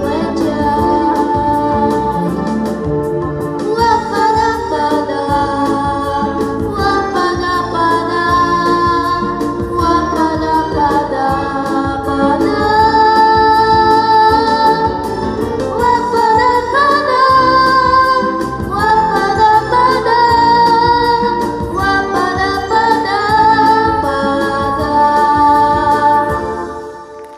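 A woman singing held, sustained notes with musical accompaniment, ending near the close with a fade-out.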